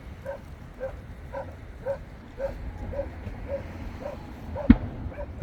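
A dog barking steadily, about two short barks a second, with a single firework bang about three-quarters of the way through.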